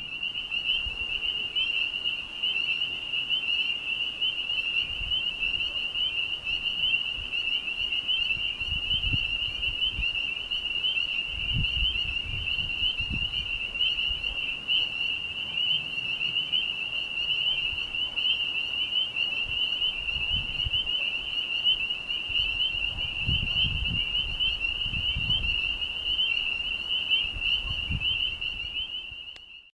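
A chorus of frogs calling in a dense, unbroken high trill. Occasional low rumbles sit underneath.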